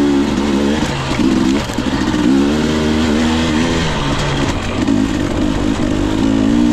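Husqvarna TE 250i two-stroke dirt bike engine, revving up and down as the throttle is worked on and off, its pitch rising and falling every second or so.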